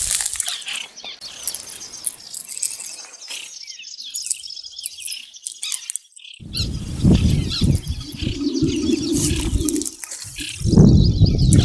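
Small birds chirping and twittering in quick high calls. About halfway through, a loud low rumbling with uneven thumps joins in and runs to the end.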